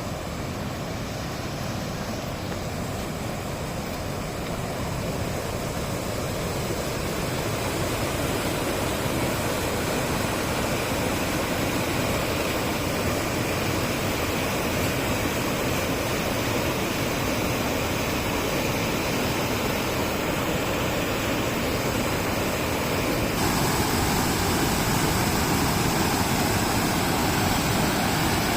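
Roar of the Lower Düden waterfall, river water plunging over the cliff into the sea: a steady, continuous rush that grows louder partway through and steps up again near the end.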